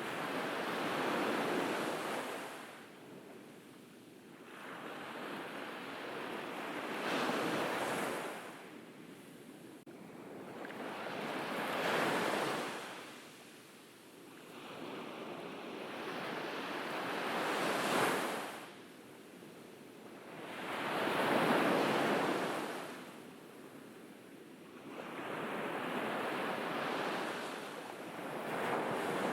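Waves breaking on a beach, the surf swelling and fading in six surges, one every four to six seconds.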